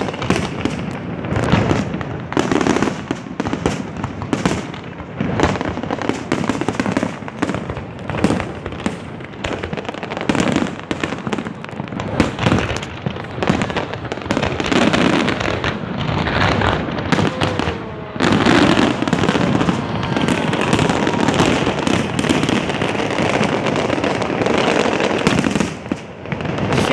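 Fireworks display: many bangs going off in quick succession over a continuous crackling rumble. The barrage grows denser and steadier about two-thirds of the way through.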